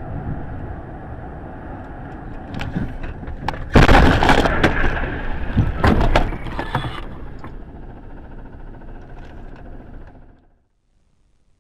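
Car crash: steady driving noise, then a loud collision about four seconds in, with several more crunching and breaking impacts over the next three seconds as the noise dies away. The sound cuts off about ten seconds in.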